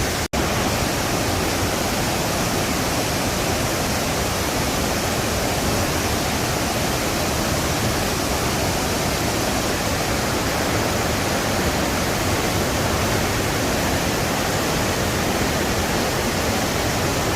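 Steady rush of a waterfall pouring into its pool. Just after the start it cuts out for a split second.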